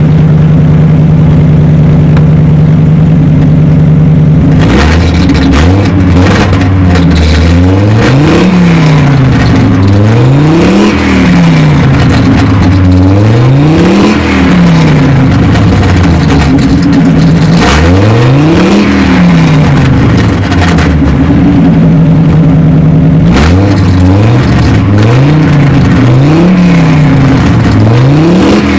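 Audi 2.3 NF inline five-cylinder engine running without an exhaust. It idles steadily at first, then is blipped up and down repeatedly. It settles briefly to idle about two-thirds of the way through, then takes several quicker revs near the end.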